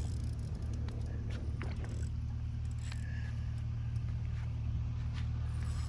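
A motor runs with a steady low hum, and a few faint ticks sound over it.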